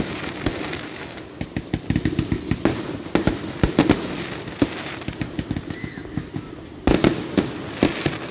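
Fireworks going off: a rapid, irregular string of booms and crackling reports, with a loud cluster of bangs about seven seconds in.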